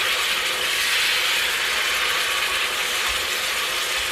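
Food frying in a Presto electric kettle: a steady, even sizzle and crackle.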